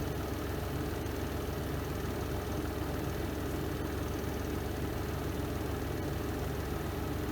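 Spin drum of a Renova semi-automatic twin-tub washing machine running its spin cycle: a steady, even motor hum and whir with no change.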